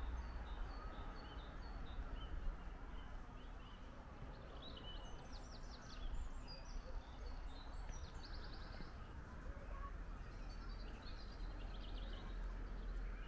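Small songbirds chirping, with quick trills about halfway through and again near the end, over a steady low rumble.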